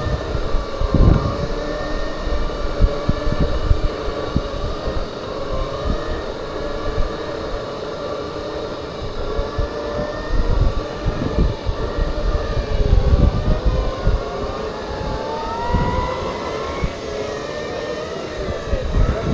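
Segway electric drive motors whining as they ride, their pitch slowly rising and falling with speed, with wind gusting on the microphone.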